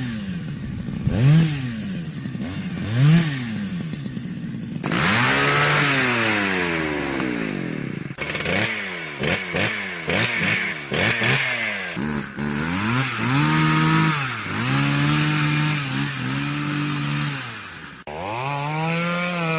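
Chainsaw engine revving: three short throttle blips at first, then held at high revs with repeated drops and rises in pitch. A harsher, hissier sound joins about five seconds in, and near the end the engine dips suddenly and revs back up.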